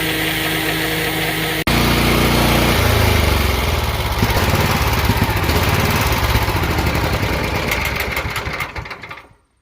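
A pressure washer runs with spray hiss. About a second and a half in, an abrupt cut brings a louder, deeper engine running steadily, which fades out near the end.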